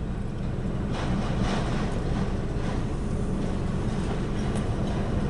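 Freight train cars rolling past: a steady low running noise of steel wheels on the rails, with faint clicks now and then.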